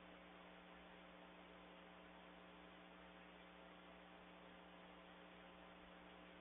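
Near silence: a faint, steady electrical hum over a low hiss, with no bird calls.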